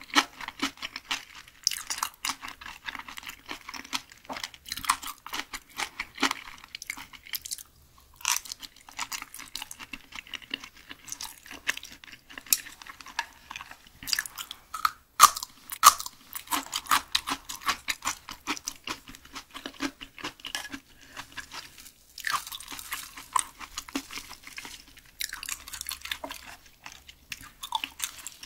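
Close-up chewing of raw Spanish mackerel sashimi: a dense run of small clicks and smacks from the mouth, pausing briefly twice.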